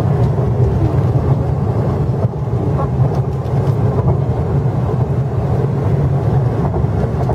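Steady low rumble of an MTR East Rail Line R-train electric multiple unit, heard from inside the carriage while running at speed.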